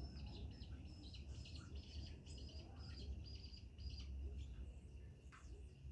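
Faint, rapid high-pitched chirping of birds, many short notes in quick succession, over a steady thin high tone and a low rumble.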